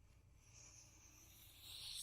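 Faint rustle of a paper book page being slid and turned, a soft hiss that builds over about a second and a half and stops abruptly at the end.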